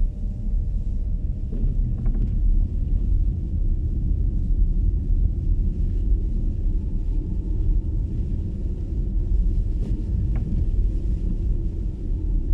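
Steady low road and tyre rumble heard inside the cabin of an MG ZS EV electric car driving on snowy roads, with no engine note. A couple of faint short clicks sound about two seconds in and again near ten seconds.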